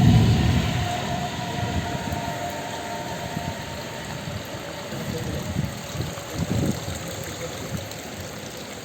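Low rumble of a passing vehicle with a steady whine, loudest at the start and fading away over several seconds, leaving the hiss of rain.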